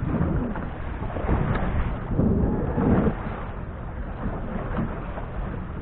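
Wind buffeting the microphone, a low rumbling rush that swells in gusts a couple of seconds in.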